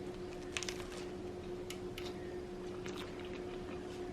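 A few faint, short crunches of someone chewing a bite of toasted French bread, over a steady low hum.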